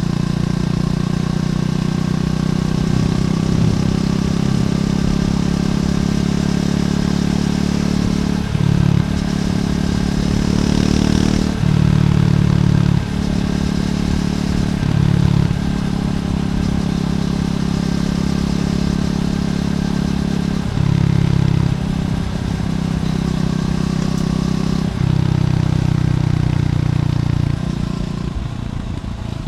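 Triumph Scrambler 400X's single-cylinder engine on its stock exhaust, running under way on a ride. The engine note steps up and down several times with throttle changes and eases off near the end.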